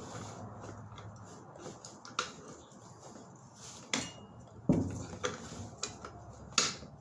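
Scattered metallic clinks and knocks, about six, from gas pipe fittings and tools being handled, the loudest a little past the middle.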